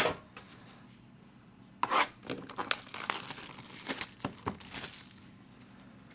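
A hockey card pack's wrapper being torn open and crinkled, in a run of short crackling bursts from about two to five seconds in.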